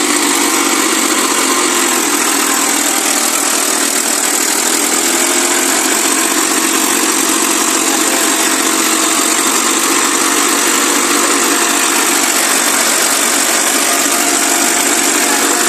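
TAFE 7250 tractor's diesel engine running steadily.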